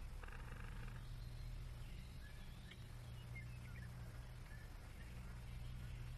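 Faint, scattered bird chirps over a steady low hum in a quiet film soundtrack.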